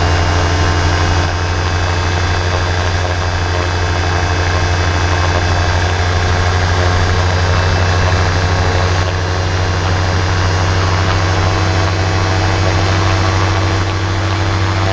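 Vancraft gyrocopter's engine and pusher propeller running at a steady, loud drone, with a strong low hum and no change in pitch.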